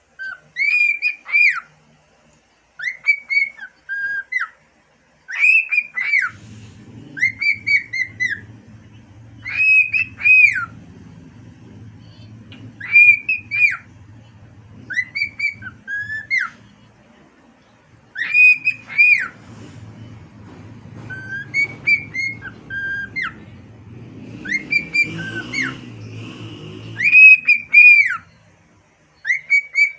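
Pet cockatiel whistling its song over and over: short phrases of arched notes that slide up and down, a few notes per phrase with brief pauses between. A faint low hum sits underneath through most of it.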